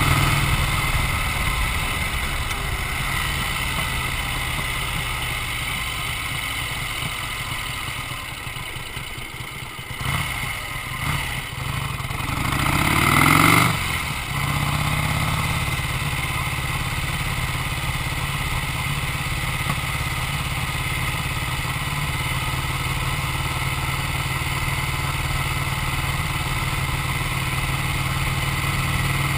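Vincent Black Shadow's 998 cc 50° V-twin engine running steadily, with one rev that rises and falls back about halfway through before it settles into steady running again.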